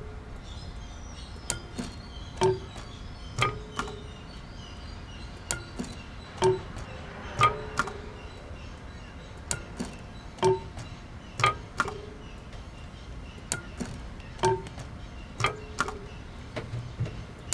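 Slow, even pulse of sharp struck knocks, about one a second, each with a brief ringing pitch and sometimes a lighter second tap just after. Faint high chirping runs underneath for the first few seconds.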